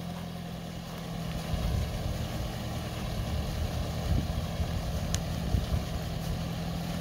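Vehicle engine running steadily at low speed under the load of a tow, with a few low knocks and bumps over rough ground.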